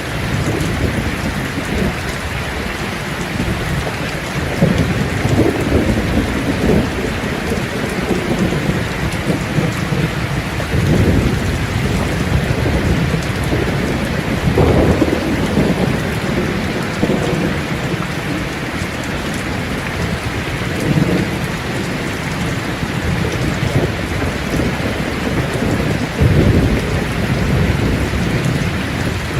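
Steady heavy rain with thunder rumbling low and repeatedly, swelling every few seconds.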